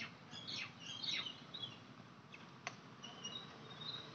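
Birds chirping: quick, high, falling chirps and a few short whistled notes, with one sharp click about two-thirds of the way through.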